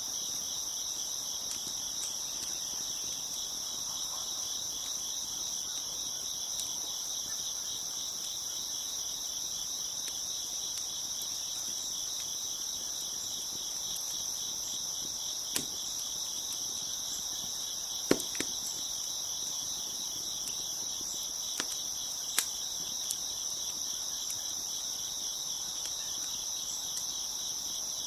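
Crickets chirping in a steady, dense chorus. A few sharp pops from a crackling wood fire stand out over it in the second half, the loudest about eighteen seconds in.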